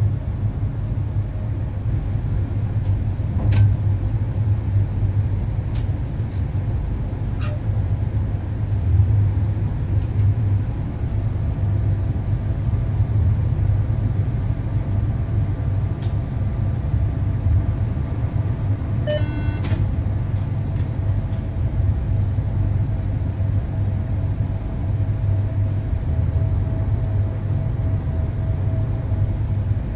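Electric train running along the track, heard from the driver's cab: a steady low rumble with a few sharp clicks, and a faint steady tone that joins about two-thirds of the way in.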